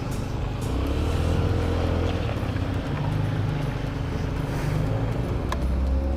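Honda Ruckus scooter's small single-cylinder engine running under way, its pitch rising and falling with the throttle, over a steady hiss of rain and wet road.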